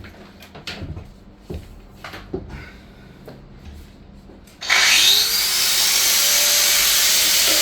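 Light knocks and clicks of tool handling, then about two-thirds of the way in an angle grinder starts, its pitch rising as it spins up, and runs steadily and loudly against the van's floor metal.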